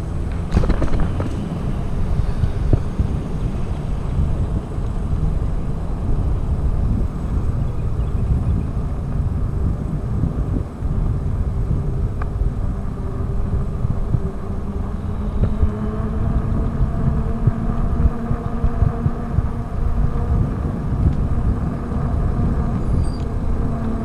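Wind buffeting the microphone while riding, a loud rumbling rush. A faint steady droning tone joins in about two-thirds of the way through.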